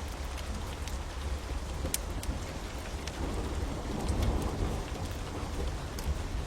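Steady rain with the sharp pops and crackles of a fire scattered through it, and a low rumble that swells about halfway through.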